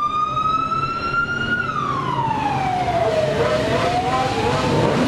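Emergency vehicle siren wailing in a slow cycle: the pitch rises, falls from about a second and a half in, then climbs again near the end. Vehicle engine noise builds underneath from about two seconds in.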